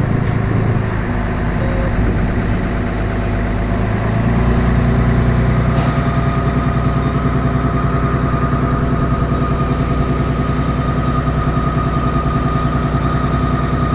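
An engine running steadily at idle with an even pulsing beat, getting louder about four seconds in, and a steady whine joining a couple of seconds later.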